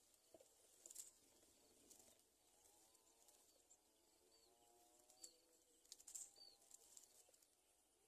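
Near silence with faint bird calls: a low, wavering call lasting several seconds through the middle, and a few short high chirps.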